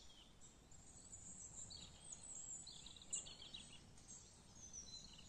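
Faint birds chirping, a scattered series of short high calls and little falling notes, over an otherwise near-silent background.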